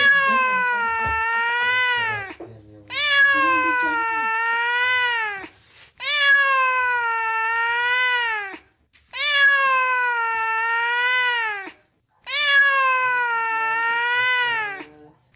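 A cat meowing five times in a steady series. Each call is a long meow of about two and a half seconds that rises, dips and rises again in pitch, with brief pauses between calls.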